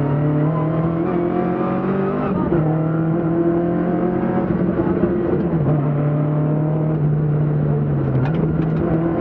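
BMW 2002 Ti rally car's four-cylinder engine running hard at fairly steady revs at speed, the pitch dropping a little about two seconds in and again about five and a half seconds in, then rising near the end.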